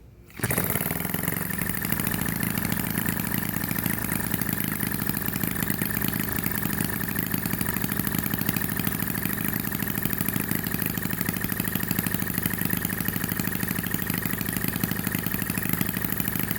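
Stirlingkit HM-01 model hit-and-miss engine catching about half a second in, then running with a steady rapid beat, still set a little fast.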